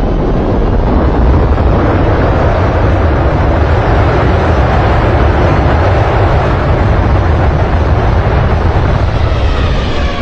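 Loud, steady roar of an airplane's engines, with a deep rumble underneath.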